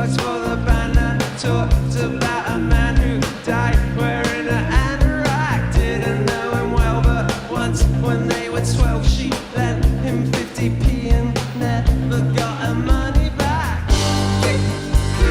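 Live band music with a steady drum beat, bass and guitar, and a voice singing now and then.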